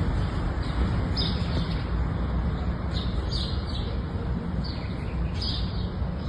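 Small birds chirping in short, repeated calls over a steady low rumble of background noise.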